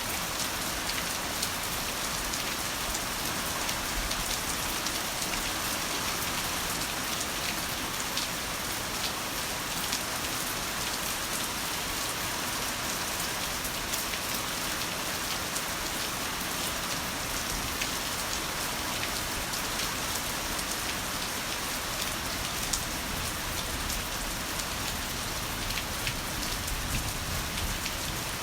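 Heavy rain falling steadily, a dense even hiss with many small drop ticks on a hard surface.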